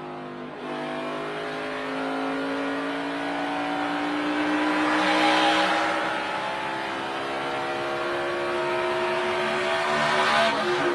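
NASCAR Cup Series car's V8 engine heard from inside the car under power, its pitch climbing steadily for about ten seconds after a brief dip less than a second in, then dropping just before the end as the throttle comes off. A rush of noise swells over it about halfway through and again near the end.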